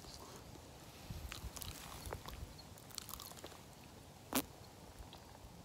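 Close-up eating sounds of a hot roasted sweet potato: soft chewing and small mouth and finger clicks, with one sharper click about four and a half seconds in.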